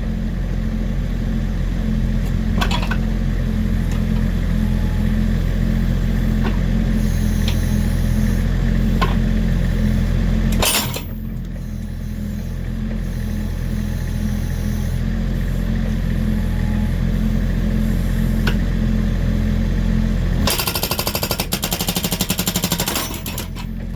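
Mini excavator's diesel engine running under load while its hydraulic breaker hammers steadily into a log, with a sharp crack about eleven seconds in. A burst of very rapid hammering comes near the end.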